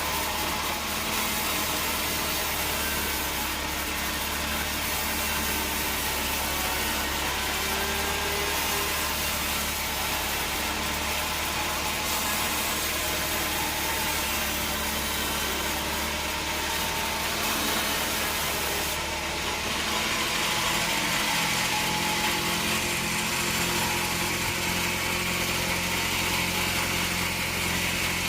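Bandsaw sawmill running steadily, its motor hum and blade noise even. About two-thirds of the way through the motor's pitch shifts and a higher hiss grows louder.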